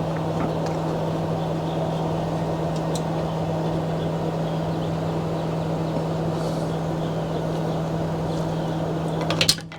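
A steady mechanical drone from a running motor or engine, with an unchanging low hum, and a faint tick or two over it.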